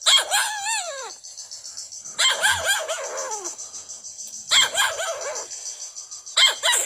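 Parrot imitating a dog: four high, whining yelps that rise and fall in pitch, spaced a second or two apart.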